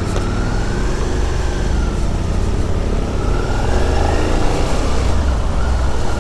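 Suzuki SV650X's 645 cc V-twin engine running under way, its revs sinking and then climbing again a few times.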